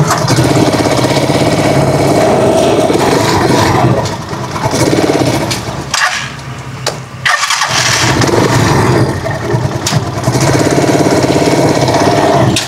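Rusi Chariot 175 motor trike engine running, no longer hissing now that its leaking rubber hose has been sealed. The sound drops off for a couple of seconds midway, then picks up again sharply.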